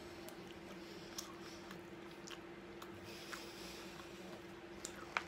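Close-miked chewing of soft chickpeas with mayonnaise: faint wet mouth sounds and scattered small clicks, over a steady faint hum, with a sharper click near the end.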